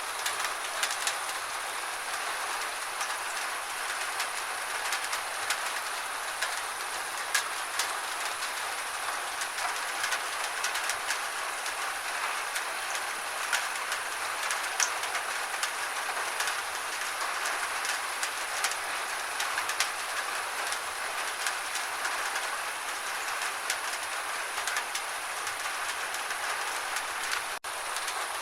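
Gentle rain falling steadily, an even hiss with many individual drops ticking sharply on a surface. There is a momentary dropout near the end.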